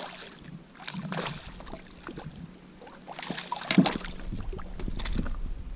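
Handling noises on a kayak while a small redfish is dealt with: scattered clicks and rustles, with a sharper knock about four seconds in.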